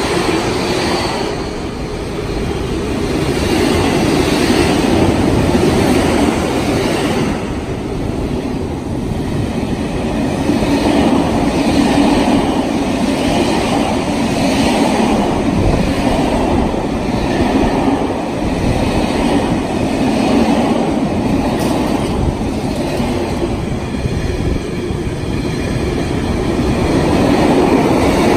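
Freight train of tank wagons and empty flat wagons passing close by, a continuous rumble of steel wheels on the rails with a repeating clatter as the wheelsets cross the track joints.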